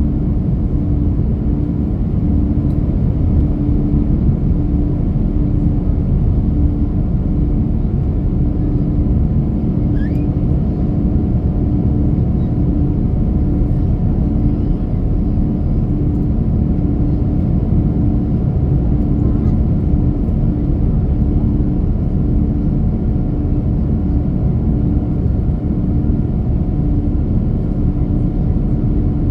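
Steady airliner cabin noise in flight: jet engines and airflow make a loud, even rumble with a constant hum.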